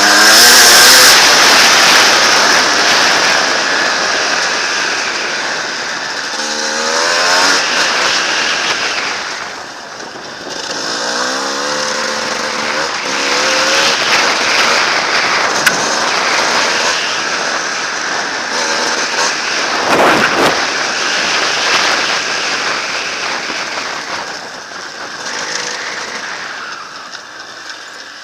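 Enduro dirt bike engine revving hard in repeated bursts, its pitch climbing and dropping as the throttle is worked, with a sharp rasp of noise about twenty seconds in.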